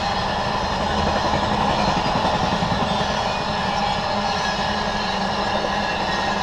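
Double-stack intermodal freight cars rolling past: steady noise of steel wheels on the rails.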